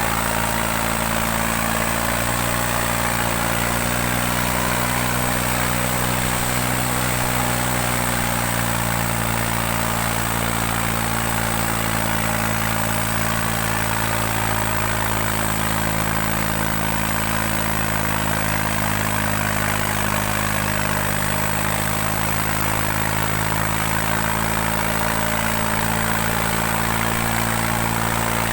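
New Holland 3630 tractor's diesel engine running steadily under load while pulling two harrows, its note shifting slightly in pitch about eight seconds in.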